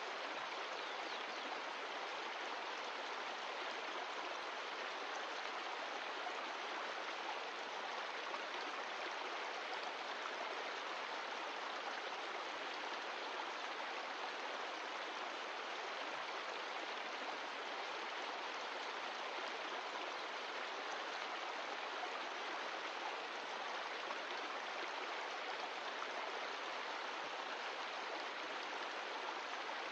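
Mountain stream of glacial meltwater running with a steady, even rush of water.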